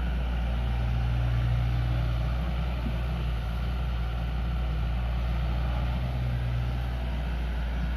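Heavy diesel engine running steadily with a deep rumble; its low hum swells twice, about a second in and again about five seconds in.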